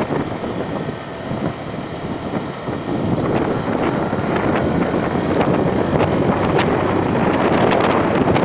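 Wind rushing over the microphone, mixed with the running noise of a moving vehicle on the ride. The noise eases from about one second in and builds again around three seconds.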